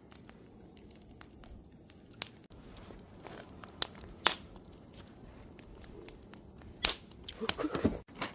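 Wood fire crackling, with irregular sharp pops over a low steady hiss; the pops grow busier near the end.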